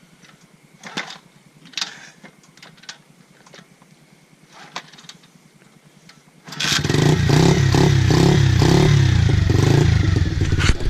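A pit bike engine catching on a bump start about two-thirds of the way through, after a few seconds of light scattered knocks, then running loudly with the revs rising and falling.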